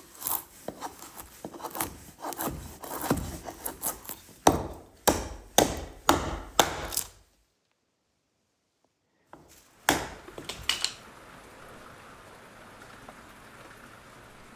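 A chopper knife forged from a leaf spring striking into wood again and again, about a dozen sharp chops. It stops for about two seconds and then gives three or four more blows, after which a soft steady hiss is left.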